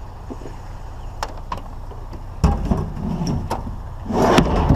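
A discarded wine cooler being grabbed and handled: a few light clicks, a sudden heavy thump about two and a half seconds in, then a loud scraping rush near the end.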